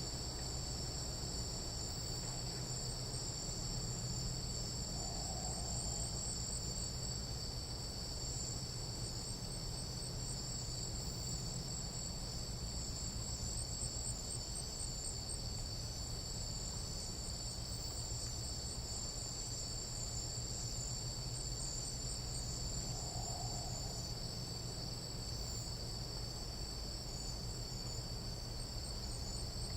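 Steady, unbroken chorus of night insects in tropical jungle, made of high-pitched continuous trilling at two pitches. A faint short call from another animal sounds twice, about five seconds in and again near the end.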